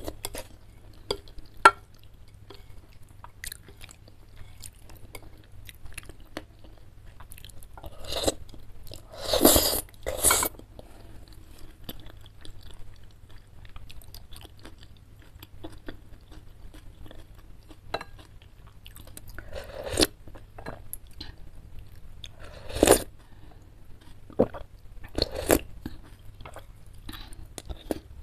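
Close-miked chewing and biting of spicy chicken noodles and chicken meatballs: many small wet mouth clicks, with a few louder bursts of eating noise spread through.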